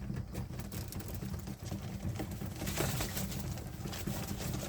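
Pigeons cooing, a low continuous burbling, with a short burst of noise about three seconds in.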